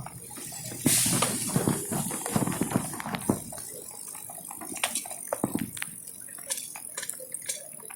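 Street sounds in the rain: a wet hiss that swells about a second in and fades over the next couple of seconds, with scattered clicks and knocks.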